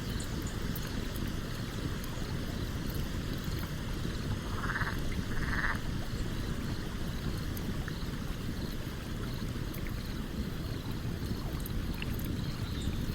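Stream water running steadily, with scattered small crackles and pops from a campfire. About four and a half seconds in, two brief rasping sounds come half a second apart.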